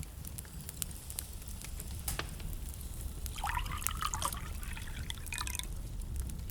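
Wood fire burning in a fireplace: a steady low rumble with scattered sharp crackles and pops. About halfway through comes roughly two seconds of wavering, bubbling sizzle.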